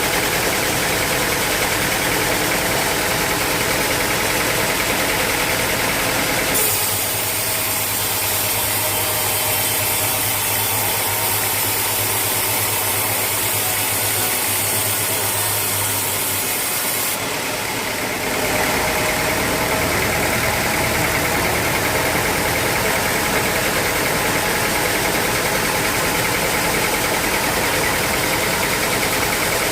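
Sawmill machinery running steadily, a motor's hum with a hiss above it. From about seven seconds in to about seventeen seconds in the sound changes, with a stronger high hiss and less low rumble, then goes back to the earlier steady running.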